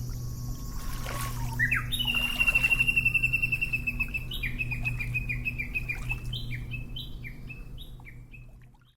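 A bird calling: a fast, high trill of even notes about two seconds in, then a string of short downward-sliding notes, a few per second, over a steady low hum.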